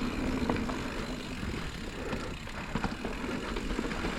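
Electric mountain bike rolling down a dirt trail: steady tyre and wind noise with scattered small clicks and knocks from the bike's chain and frame.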